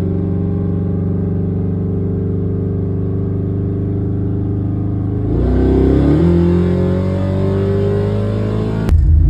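Truck engine running steadily while driving, then about five seconds in the pitch dips and climbs slowly as it accelerates. Just before the end it cuts sharply to a louder rumble.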